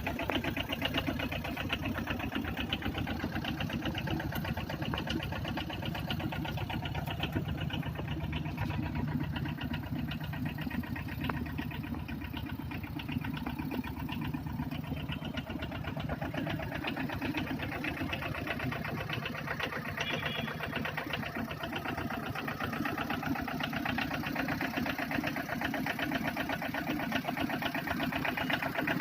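An engine idling steadily, with an even, rapid beat.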